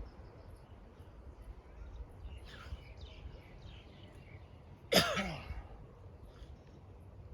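A person's single short, loud throaty burst, like a cough, about five seconds in, falling in pitch. Faint bird chirps are heard before it.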